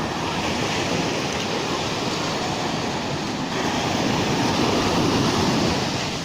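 Rough Black Sea surf washing onto the shore, a steady rushing wash that swells louder as a wave breaks about halfway through, then eases.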